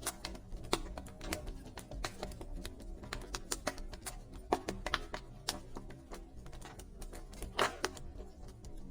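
Wood fire in a fireplace crackling, with sharp pops at irregular intervals and a few louder snaps around the middle and near the end, over soft background music.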